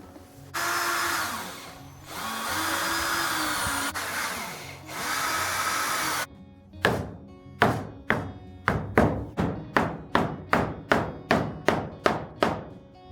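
A power tool runs in three short bursts on wood, then a hammer strikes about fourteen times in a steady run of roughly three blows a second that quickens toward the end.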